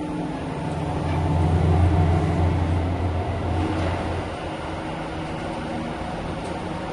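Running noise of a moving Seibu 4000 series train heard from inside the cars: a steady low rumble with a hum. It swells about a second in while crossing the gangway between cars, then eases to an even level after about four seconds inside the next car.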